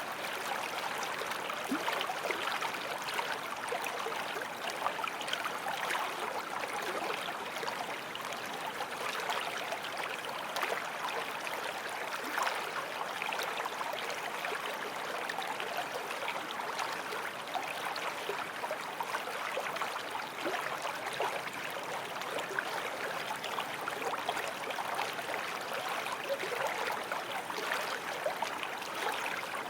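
Small forest stream flowing steadily, water babbling and trickling over stones.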